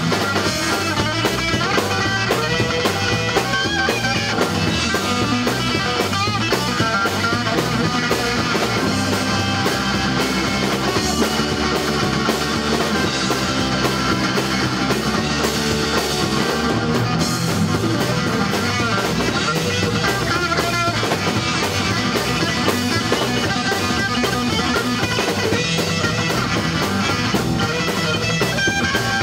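Rock band playing, with guitars over a drum kit, loud and steady with no break.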